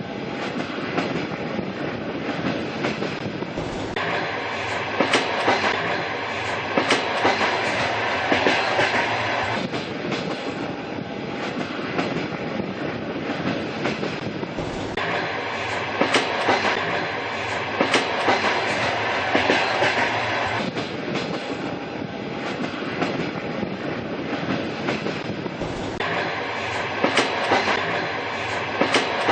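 Old-style railway train running along the track: a steady rumble with the regular clickety-clack of the wheels passing over rail joints.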